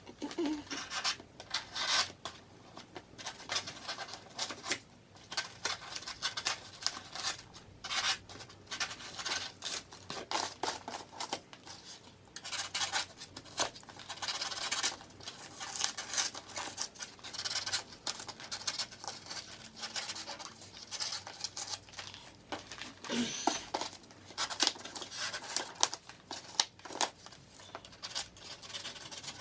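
A knife carving and scraping cured expanding spray foam, a quick irregular run of rasping cutting strokes.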